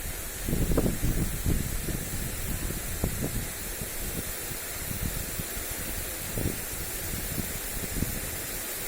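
Lawn sprinkler spraying water over grass in a steady hiss. Gusts of wind buffet the microphone low down, strongest about a second in and again near three seconds, then easing.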